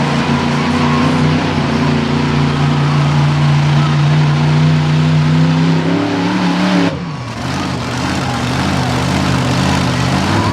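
Monster truck engine held at high revs, then falling in pitch and dropping off the throttle about seven seconds in, running on more quietly after that.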